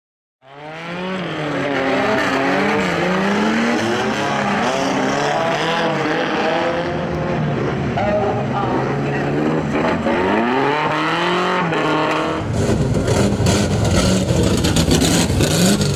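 Banger racing car engines revving, the pitch rising and falling over a second or two at a time. About twelve seconds in it gives way to a rougher, louder engine close by, with a rapid crackle.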